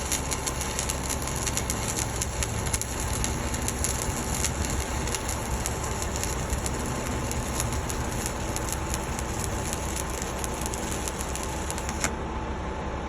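Stick-welding arc burning a 1/8-inch 7018 rod at about 124 amps: a steady, dense crackle. The arc breaks off about twelve seconds in, leaving a steady hum.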